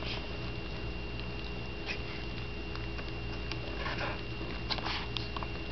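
A puppy sniffing, with a few soft, brief rustles and taps scattered through, over a steady low hum.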